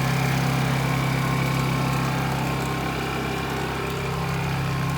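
Small portable generator engine running steadily under load, powering a vacuum pump that is evacuating a heat pump's refrigerant line set.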